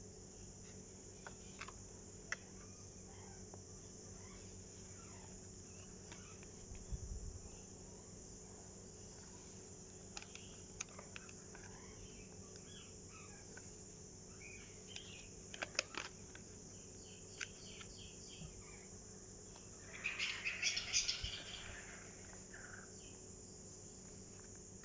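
Paper pages of a junk journal being handled and turned: scattered small clicks and taps, a soft thump about seven seconds in, and a louder papery rustle of a page turn about twenty seconds in, over a faint steady hum.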